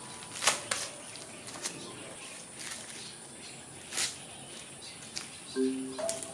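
Dry corn husks being torn and peeled from an ear of sweet corn: a few sharp, crisp rips spaced a second or so apart. Soft plucked music comes in near the end.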